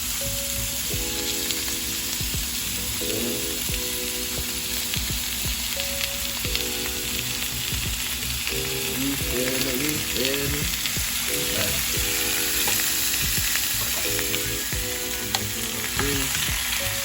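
Chicken pieces and bell peppers sizzling steadily in hot oil in a frying pan. The heat is high enough that the food is cooking too fast.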